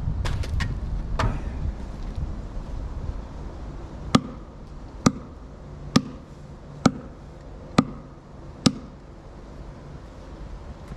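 Tractor engine running steadily, a little louder in the first couple of seconds with a few clicks, then six sharp knocks just under a second apart.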